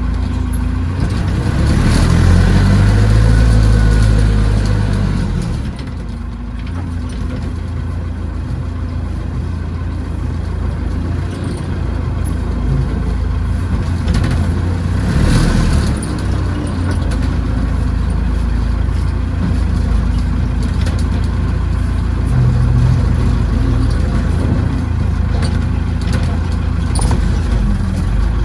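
Tractor backhoe engine running steadily, revving up louder for a few seconds early on and then settling back, with occasional knocks from the machine at work.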